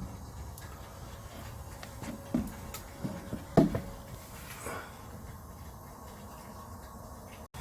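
Wood fire burning in a homemade wood stove rigged to burn top-down: a steady low rumble, with a handful of sharp crackles and pops about two to four seconds in, the loudest near the middle.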